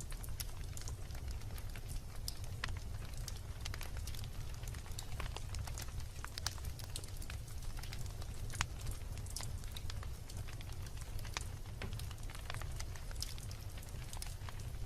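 Wood fire of burning logs in a fireplace, crackling and popping with many irregular sharp snaps over a steady low rumble.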